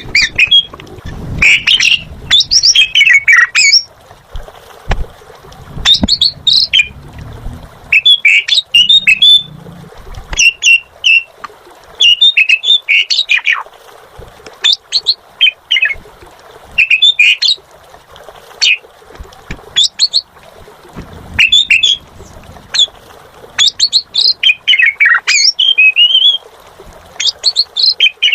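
Asian pied starling (jalak suren) singing in loud bouts of rapid, varied high whistles and chattering notes, each bout lasting about a second and repeated every second or two with short pauses.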